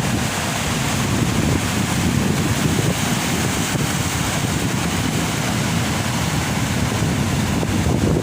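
Heavy surf from large ocean waves, a steady rush of breaking water with a low rumble, with wind buffeting the microphone.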